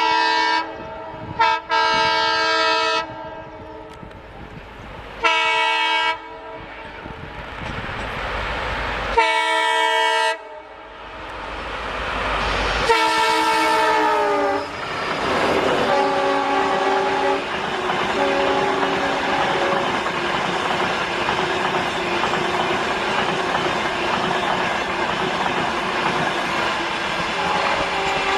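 Vande Bharat Express train sounding its horn in about five separate blasts. The last blast drops in pitch as the train passes, and then comes the loud, steady rush and clatter of the carriages going by.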